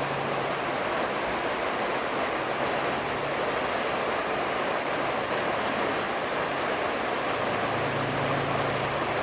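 Steady rush of flowing river water over rapids, an even hiss with no breaks.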